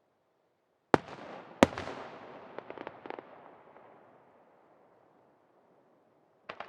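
Aerial fireworks shells bursting. Two sharp booms come about a second in, under a second apart, followed by a few smaller pops as the echo fades away; another boom comes near the end.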